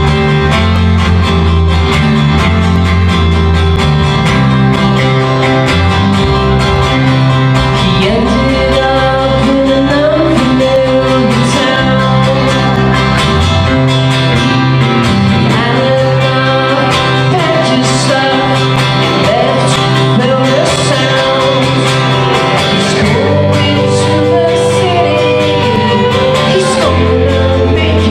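A live band plays a country song, with guitar over steady held bass notes. A wavering melody line joins about eight seconds in.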